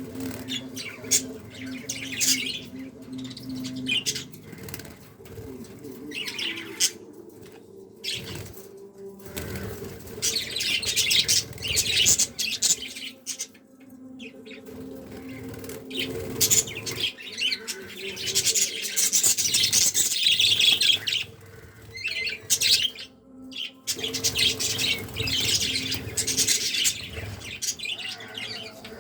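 Budgies chirping and chattering in repeated scratchy bursts, over a faint steady low hum.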